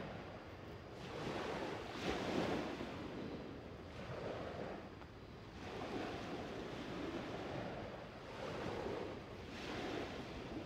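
Sea waves breaking and washing up on a sandy beach, the surf noise swelling and easing several times.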